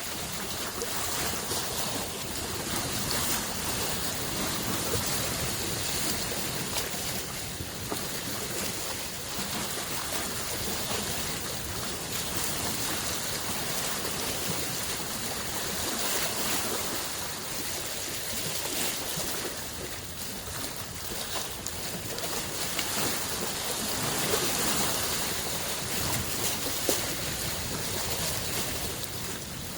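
Waves on Lake Biwa, a large freshwater lake, washing against the shore: a steady wash of water noise that swells and eases every few seconds.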